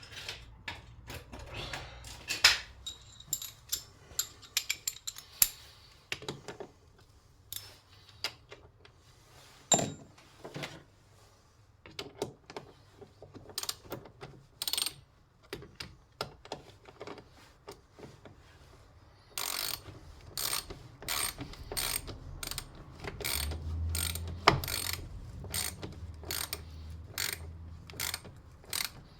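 Ratchet socket wrench clicking as a battery terminal clamp nut is tightened. The clicks are irregular at first, then settle into an even run of about two a second for the last ten seconds.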